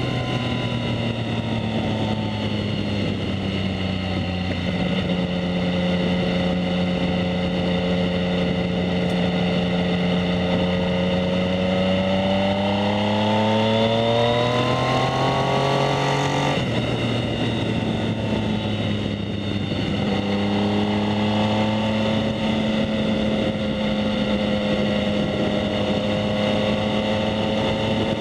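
The 2019 Yamaha MT-09's 847 cc inline-three engine, breathing through a Two Brothers S1R full exhaust system, is heard under way. The engine holds a steady pitch, then rises over a few seconds as the revs climb. The pitch drops sharply at a gear change, then the engine settles back to a steady cruise.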